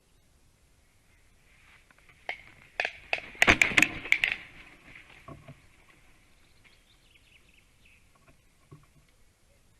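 A commotion on a black stork's nest: a loud flurry of sharp knocks and rustling lasting about three seconds, then faint high bird chirps.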